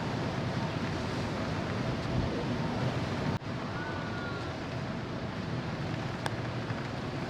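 Steady rush of wind on the microphone and the sea alongside a ferry under way, with a low rumble underneath. It breaks off for an instant about three and a half seconds in, then carries on the same.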